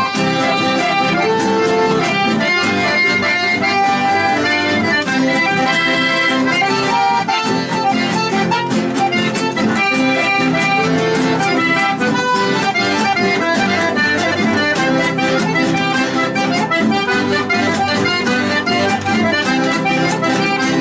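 Chamamé played live on accordion: steady, continuous folk music with a regular beat.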